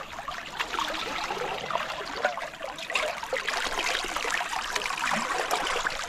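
Water trickling and gurgling, a steady stream of small bubbling sounds.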